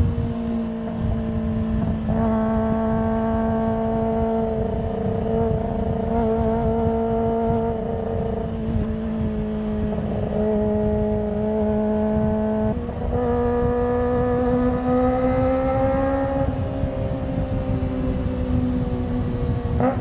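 Kawasaki ZX-25R's 250 cc inline-four engine and exhaust running at steady high revs while riding. It gets louder about two seconds in, dips briefly and picks up again about two-thirds through, then eases off with a slowly falling pitch near the end.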